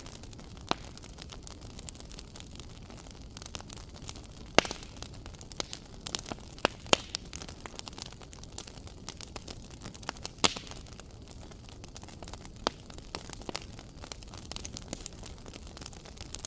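Wood fire crackling: irregular sharp pops and snaps over a steady low hiss, with a few louder pops about a third of the way in and again past the middle.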